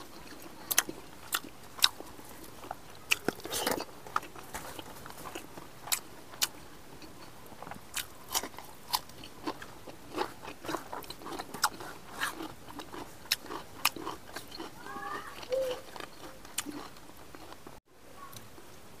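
A person chewing a mouthful of rice and meat right at a clip-on lapel microphone: irregular wet mouth clicks and smacks, one or two a second.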